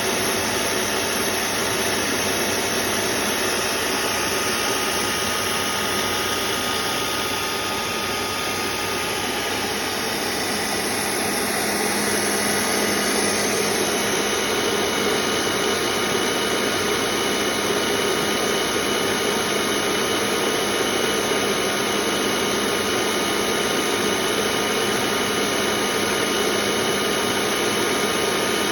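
Dumore tool post grinder's motor running steadily, a continuous machine whine with several steady tones; it gets slightly louder about twelve seconds in.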